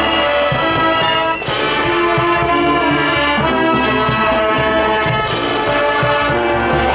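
High school marching band playing, the brass holding sustained chords over steady drum beats from the percussion section, with two loud crashes, about a second and a half in and again a little past five seconds.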